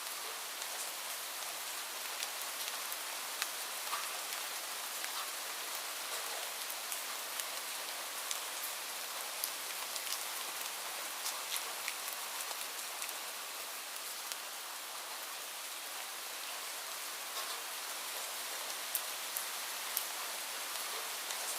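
Steady rainfall, an even hiss with many individual drops ticking sharply on a surface.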